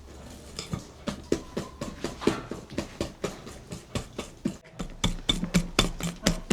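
A quick run of sharp knocks, about three or four a second, getting louder about five seconds in.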